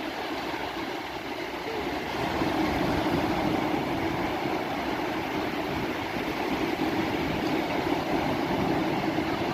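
Sea surf washing steadily against the shore, growing a little louder about two and a half seconds in.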